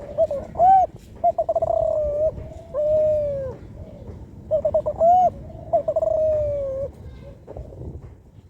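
Young spotted dove (Kelantan tekukur), about four months old, cooing two song phrases, each a few short stuttered notes and a trilled note ending in a long drawn-out coo: a juvenile still learning to shape its song.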